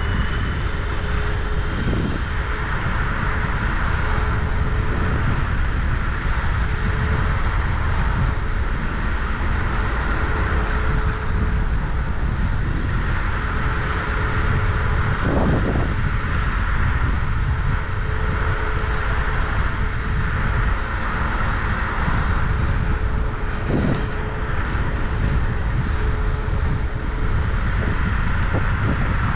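Wind and road noise of a vehicle on the move, heavy and rumbling on the microphone, with a thin steady whine underneath and a few brief knocks.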